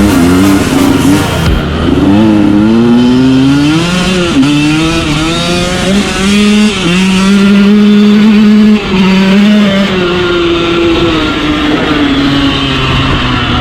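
2013 KTM 125SX two-stroke single-cylinder dirt bike engine being ridden hard, its pitch climbing as it revs and dropping sharply at gear changes, about four, seven and nine seconds in. After the last drop it runs at a steadier, lower pitch.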